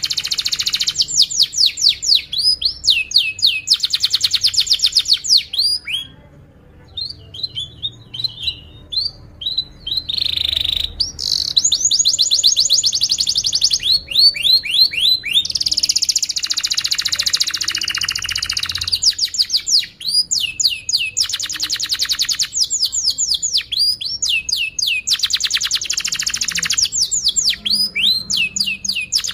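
Domestic canary singing a long song of fast rolling trills, each made of rapid repeated sweeping notes. About a third of the way in the song drops to a softer stretch of scattered chirps, then picks up again into fuller rolls.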